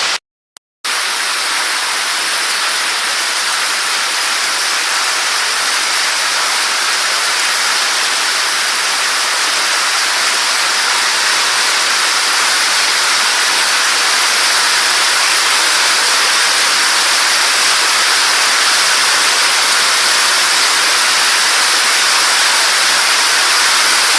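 Hail and heavy rain coming down in a hailstorm, a dense, steady hiss. It drops out for a moment just after the start, then resumes.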